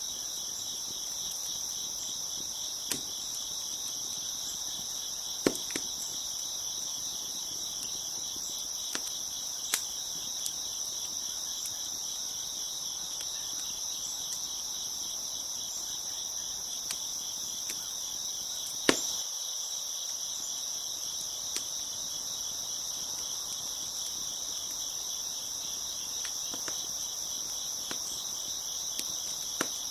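A dense, steady chorus of crickets chirping, with occasional sharp pops and crackles of a wood fire scattered through it. The loudest pop comes about two-thirds of the way in.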